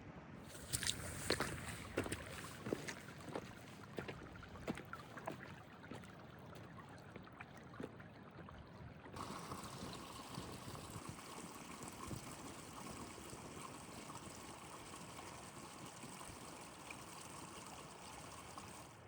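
Footsteps on wet upland ground, about two a second, over wind and rain noise. About nine seconds in they give way abruptly to a steady rushing hiss.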